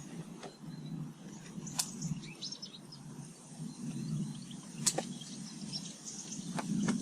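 Small garden birds chirping faintly in short high twitters, with a few sharp taps, the loudest about two and five seconds in, over a low steady rumble.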